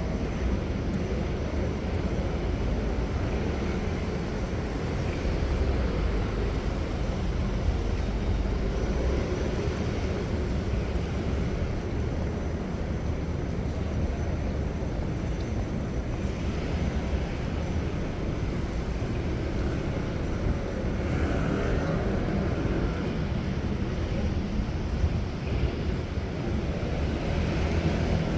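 Steady road traffic noise: a continuous low rumble of passing vehicles on city streets.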